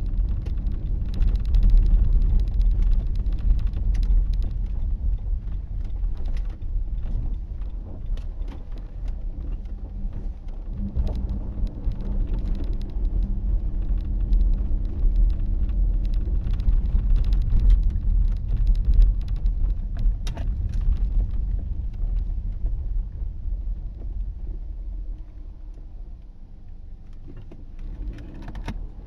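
Car driving on a snow-packed road, heard from inside the cabin: a steady low rumble of tyres and engine with scattered small clicks and ticks, getting quieter a few seconds before the end.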